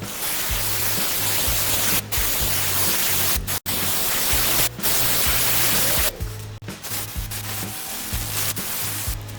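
Aerosol upholstery spray adhesive hissing in long bursts with brief breaks, stopping about six seconds in, over background music with a steady low beat.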